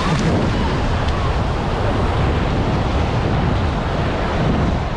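Steady wind buffeting the microphone over the wash of waves.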